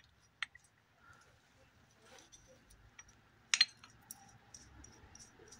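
A few sharp metallic clicks from a wheel bearing being handled and fitted onto a rear stub axle, the loudest one about three and a half seconds in, followed by faint small ticks.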